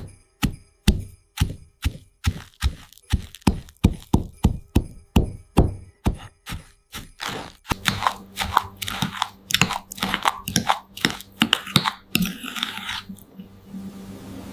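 Sharp taps at an even pace, about three a second, for the first half. Then a denser, irregular run of crackling and crunching over a low steady hum.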